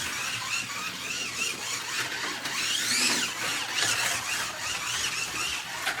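Slot car's small electric motor whining as it laps the track, the pitch rising and falling repeatedly as it speeds up and slows for the corners. One long rising sweep comes about three seconds in.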